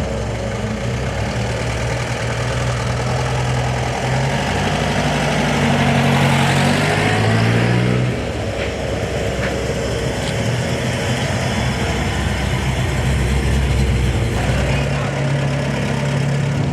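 Car engine running close by, its pitch stepping up and down with changes in engine speed, loudest about six to eight seconds in.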